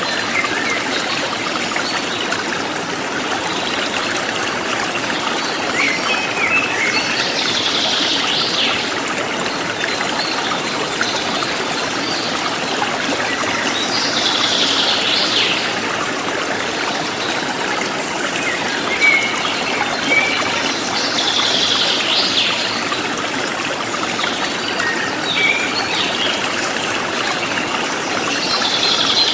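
Forest stream flowing steadily, with birds chirping above it in short bursts of song about every seven seconds.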